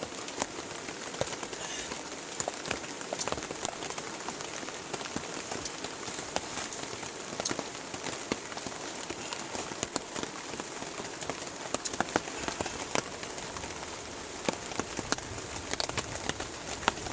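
Steady rain falling, with many individual drops striking sharply and irregularly throughout.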